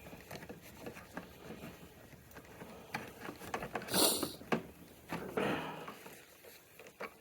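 Hands handling scooter parts: scattered small clicks, taps and rubbing, with a louder brief scrape about four seconds in and another shortly after five seconds.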